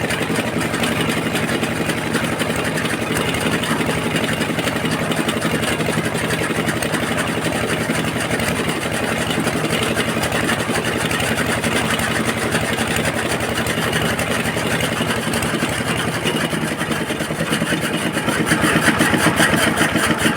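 Diesel engine running steadily, a little louder from about three-quarters of the way in.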